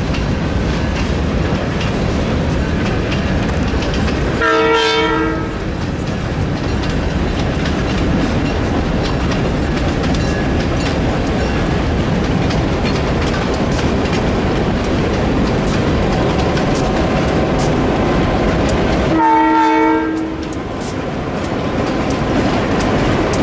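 Freight train rolling past, its wheels clacking over the rail joints under a steady rumble. A locomotive horn sounds two short blasts, one about four and a half seconds in and another about nineteen seconds in.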